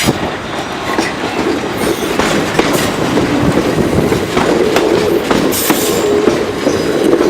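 South Western Railway Class 450 Desiro electric multiple unit running into the platform at low speed, its wheels clicking steadily over rail joints and pointwork, with a faint brief squeal around the middle.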